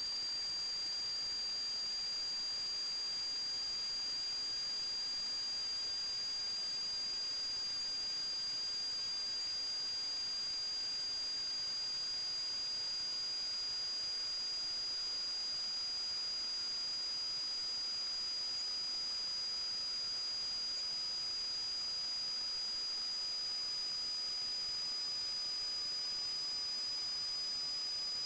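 Steady electronic hiss with a constant high-pitched whine, and under it a faint tone that slowly drops in pitch.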